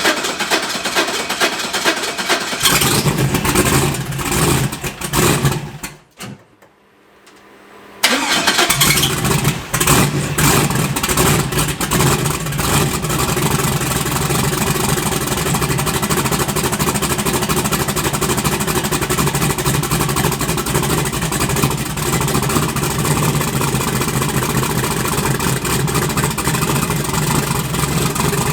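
Twin-turbo AMC Spirit drag car engine cranking and catching, then cutting out for a moment about six seconds in. It comes back and runs steadily for the rest, on freshly rebuilt fuel injectors.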